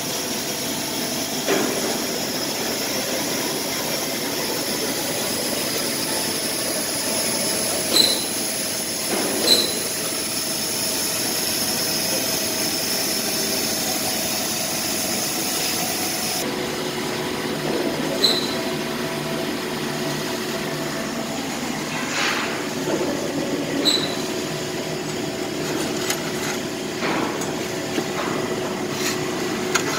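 Laser cutting machine cutting a metal fireplace door part, a steady mechanical hiss and hum with a few short sharp pops scattered through it.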